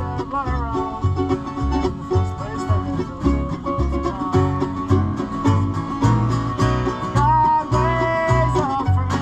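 Acoustic bluegrass band jamming a tune: banjo and guitar playing over a steady bass line that alternates low notes about twice a second, with a sliding lead melody on top.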